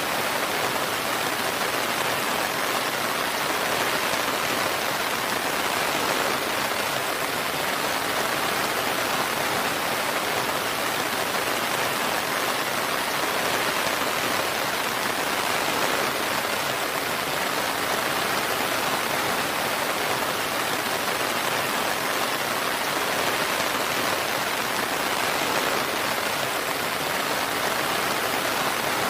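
Steady, even rain falling, a continuous hiss with no thunder or breaks.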